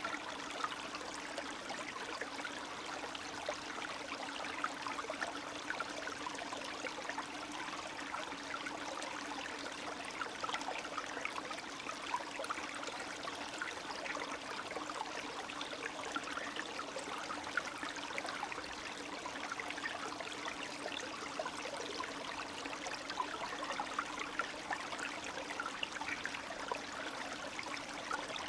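Spring meltwater stream running and trickling steadily, with small splashes and gurgles over a constant rush of water.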